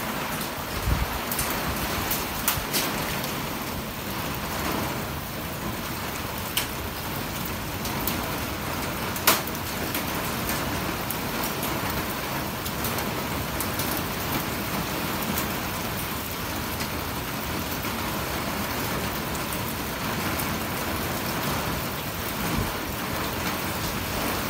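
Heavy rain falling steadily, with a few sharp taps scattered through it.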